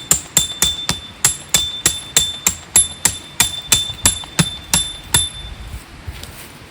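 Steady hammer blows on metal, about three a second, each strike leaving a short high ringing note; the blows stop about five seconds in.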